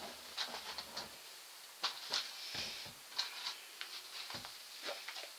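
Scattered light taps and knocks, a dozen or so short irregular clicks, as a dog moves around and handles objects at a bucket.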